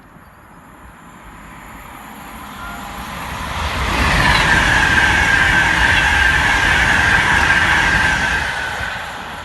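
High-speed passenger train approaching and passing through at speed. A rising rush of wheels and air peaks about four seconds in, with a steady high whine through the pass, and begins to fade near the end.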